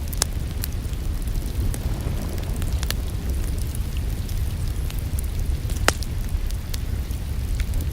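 Wood fire crackling in a fireplace: sharp pops and snaps come at irregular intervals over a steady low rumble, with one louder pop about six seconds in.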